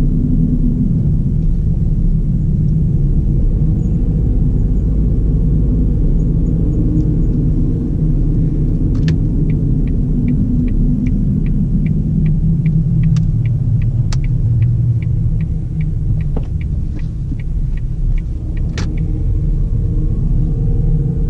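Ford Fiesta 1.4 four-cylinder engine and road noise heard from inside the car, a steady low rumble. About halfway through, an even ticking of two to three ticks a second runs for about ten seconds, with a few sharper clicks, then stops.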